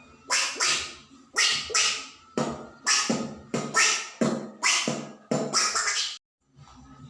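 Beatboxer making mouth percussion: a quick run of about a dozen sharp hits, each fading fast, mostly in pairs, which stops about six seconds in.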